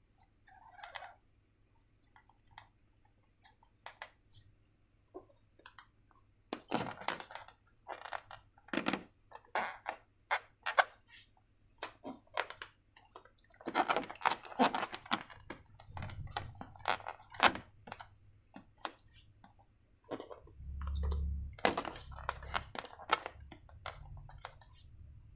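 Irregular clicks, crackles and crinkling from hands handling slime-making materials and balloons, with a few low thumps in the last few seconds.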